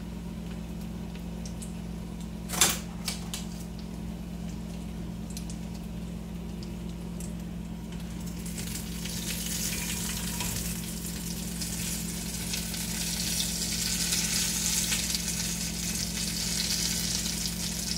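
Bean taquitos frying in oil in a skillet, a sizzle that builds from about halfway through and holds, over a steady low hum. There is a single sharp clack a couple of seconds in.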